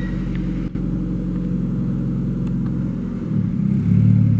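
A car engine idling steadily, its low hum swelling louder about three seconds in as it picks up a little.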